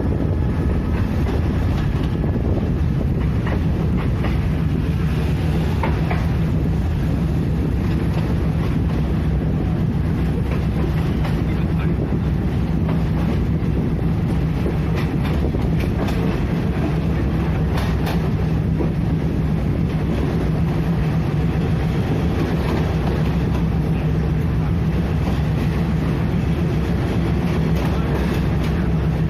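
Train running on the rails: a steady low rumble and hum, with scattered clicks from the wheels.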